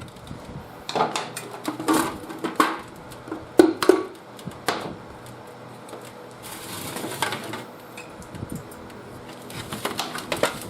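Irregular metal clinks and knocks of hand tools and engine parts being handled while a seized small engine is taken apart. The loudest knocks come a little under 4 seconds in.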